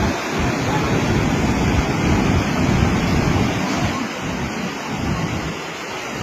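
Loud, steady rush of flowing floodwater.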